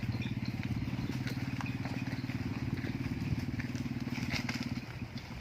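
A small engine running steadily with a fast, even low throb, easing off near the end, with faint high bird chirps over it.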